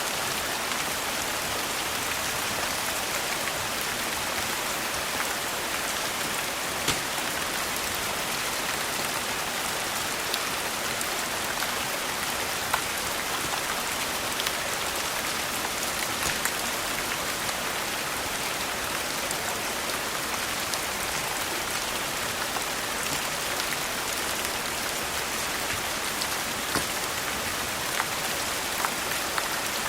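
Steady rain falling, an even hiss with scattered sharp clicks and ticks through it.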